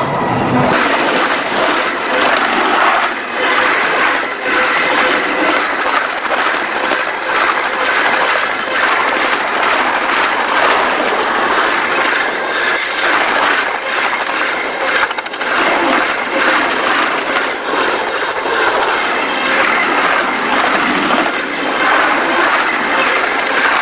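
Freight train cars rolling directly over the top of the listener between the rails: a loud, continuous rattle and clatter of steel wheels on the track, with frequent knocks and a thin, steady high wheel squeal.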